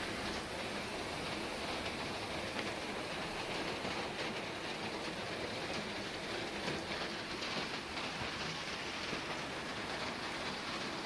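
Steady rain falling, an even hiss of drops pattering on surfaces.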